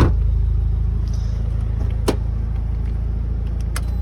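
Mitsubishi Lancer Evolution IX's turbocharged 4G63 inline-four idling steadily with a low hum. A sharp knock comes right at the start, and a few lighter clicks follow about two seconds in and near the end.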